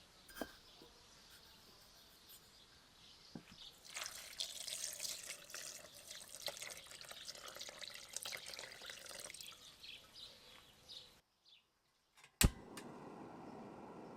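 Water splashing and trickling, as from a running tap into a sink, with many small drips and knocks, for about seven seconds after a quiet start. It cuts off abruptly, followed by a single sharp click, the loudest sound.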